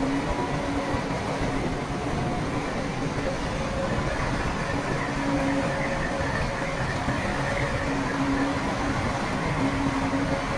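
Heavy earthmoving machinery running: a diesel engine's steady noise, with a faint tone that comes and goes every few seconds.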